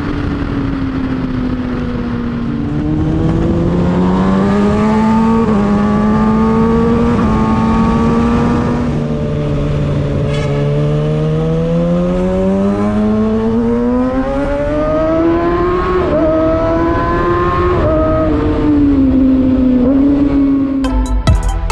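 Kawasaki Ninja ZX-6R's inline-four engine being revved through its exhaust. The pitch climbs about three seconds in and holds, eases off, then climbs higher from about ten to fifteen seconds. Two short blips follow before it drops back toward idle.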